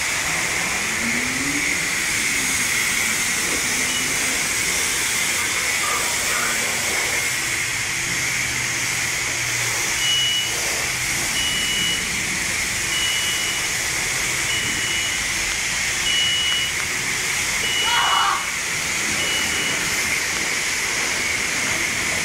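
High-pressure car-wash spray wand running steadily, a loud even hiss of water jetting onto a car. From about halfway through, a short high beep repeats roughly every second and a half.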